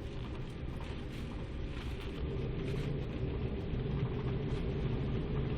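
Embraer 195 jet's engine and cabin rumble heard from inside the passenger cabin: a steady low drone with an airy hiss over it, growing louder about two seconds in.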